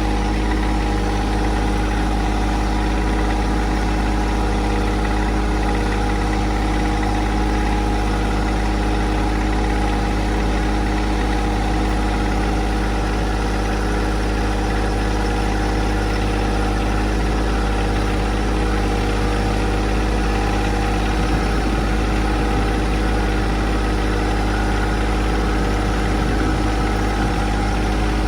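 John Deere 2025R compact tractor's three-cylinder diesel engine running at a steady, unchanging speed.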